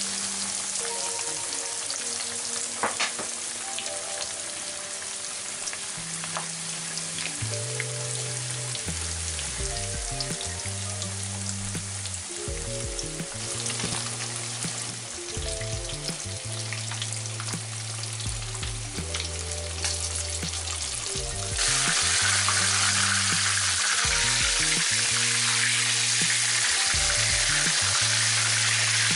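Breaded chicken cutlets sizzling as they fry in a pan of hot oil, a steady crackling hiss that gets suddenly louder about two-thirds of the way through. Background music plays underneath.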